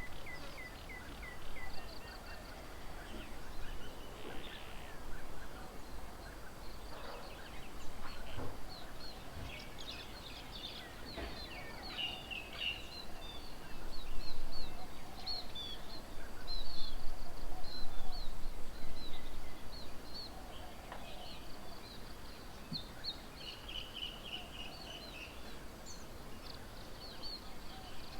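Several wild birds calling and chirping together, many short high chirps overlapping, over a steady outdoor background hiss, with a louder stretch around the middle.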